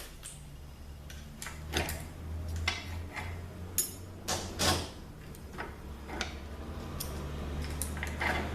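Metal clinks and clacks of automatic-transmission clutch plates and steels being handled and laid down, a dozen or so sharp knocks at uneven intervals over a low steady hum.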